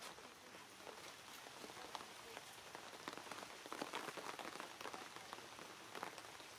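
Water drops pattering irregularly on surfaces: a scatter of light ticks over a faint steady hiss.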